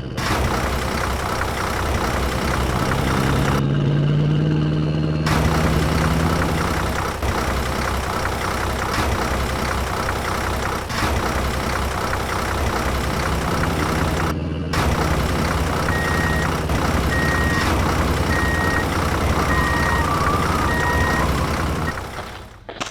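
Vehicle engine running steadily, with a row of reversing beeps at about one a second in the last seconds.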